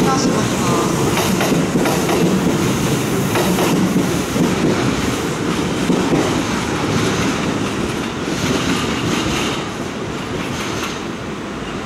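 Electric train running on the rails, wheels clicking over rail joints and points, the rumble slowly fading over the last few seconds.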